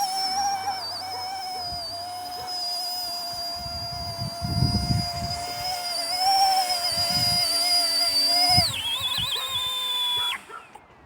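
Small electric RC helicopter, an Era EC135 (C123), with its motor and rotors giving a steady high whine that wavers slightly. Near the end the whine drops in pitch and winds down to a stop as the motors are cut. Some low gusty rumble comes in the middle.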